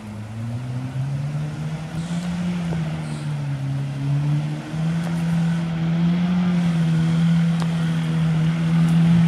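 Off-road 4x4's engine running hard out of sight, its pitch climbing and dipping as it is revved, then holding a higher steady drone from about halfway and growing louder toward the end.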